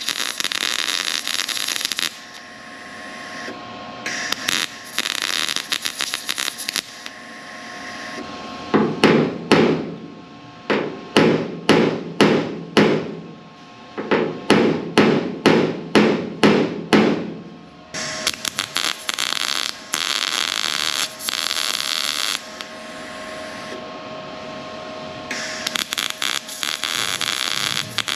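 A hammer striking sheet-metal body panels about fifteen times in quick succession, each blow ringing, between several bursts of crackling welding a few seconds long.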